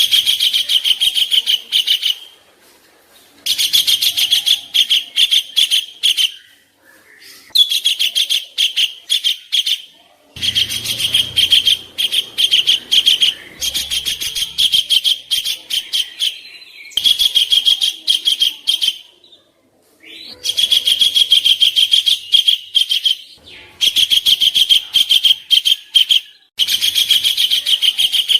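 A songbird giving rapid strings of harsh, high chirps, many to the second, in phrases of about two to three seconds broken by short pauses. This is birdsong used as a training recording for competition songbirds.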